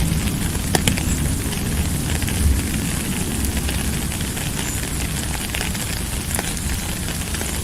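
Steady rain falling, a dense crackle of drops with a low rumble underneath.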